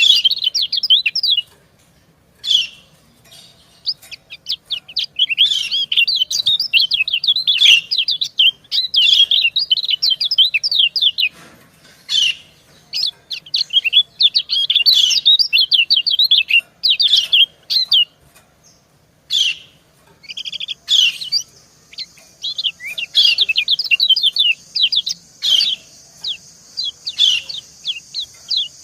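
White-eyes chirping: rapid runs of high, thin, sweeping notes in bursts of a second or two with short pauses, the female's 'ciak-ciak' calls answering the male. About twenty seconds in, a steady high hiss joins underneath.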